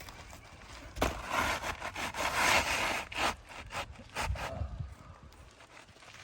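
Elk Prestique laminated asphalt shingle scraping and rubbing across the roof as it is slid back into place, with small clicks, then a dull thump about four seconds in.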